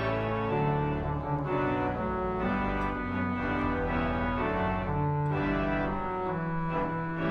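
Church organ playing sustained chords that change about once a second over low bass notes.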